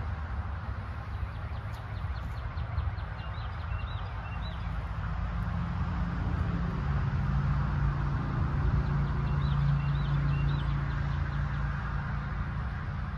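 Outdoor ambience of small birds chirping in short runs of quick high notes, over a steady low hum that grows louder in the middle.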